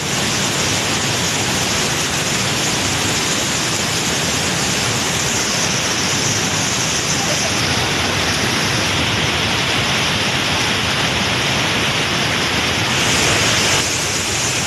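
Snowmelt mountain stream rushing: loud, steady water roar with no pause.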